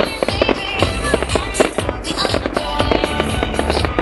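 Fireworks bursting and crackling in quick irregular succession over loud show music with a steady bass.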